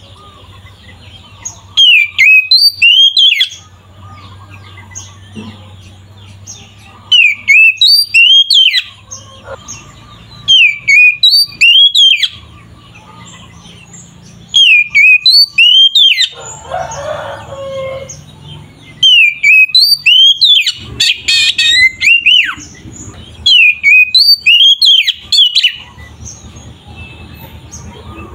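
Oriental magpie-robin (kacer) singing loud phrases of whistled notes that sweep up and down, in bursts of a second or two every few seconds, with a low hum between them.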